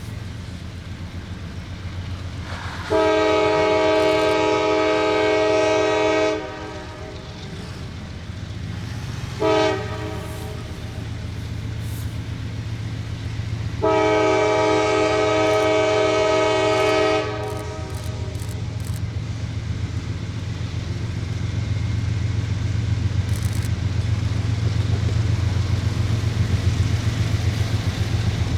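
A locomotive's multi-chime air horn sounds a long blast, a short blast and another long blast, over the steady low rumble of a diesel locomotive. The rumble grows louder toward the end.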